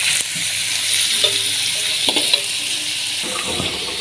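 Steady hissing noise with a few faint clicks over it.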